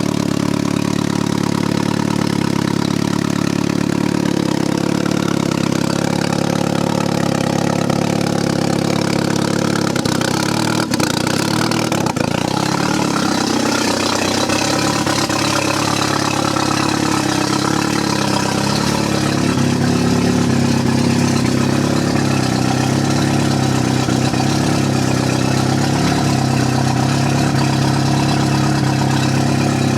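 Turbocharged four-cylinder engine of a 1995 BMW E36 318ti idling steadily just after start-up, its note shifting a little about twelve seconds in and growing slightly louder later. The owner judges it to be running very rich.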